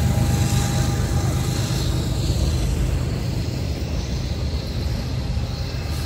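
Freight train rolling past: a steady low rumble of autorack cars on the rails, slowly easing as the mid-train diesel locomotive pulls away.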